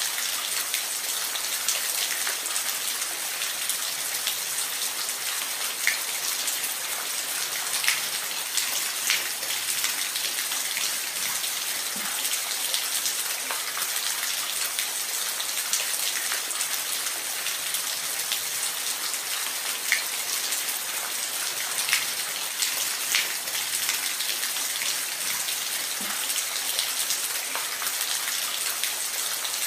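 Waterfall: a steady rush of falling water with scattered splashes now and then.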